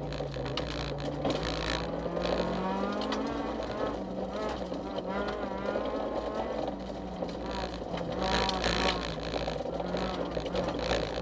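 Honda CRX rally car's engine heard from inside the cabin, under hard driving, its pitch climbing about two to three seconds in and then dropping and stepping with gear changes, over steady tyre and road noise.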